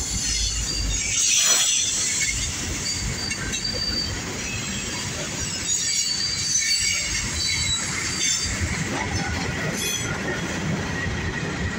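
Norfolk Southern freight train passing close by: the diesel locomotive rumbles past first, then boxcars and covered hoppers roll by with rail noise and intermittent high, thin wheel squeal.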